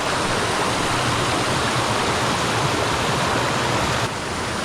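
Creek water rushing steadily, an even hiss of flowing water that dips slightly in level about four seconds in.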